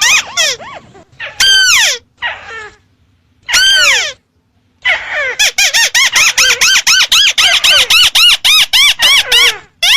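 Lure recording of a crake's call (burung tikusan): a rapid run of short, sharp, down-slurred notes at about four a second, broken by gaps and a single short burst in the first half, then running on evenly.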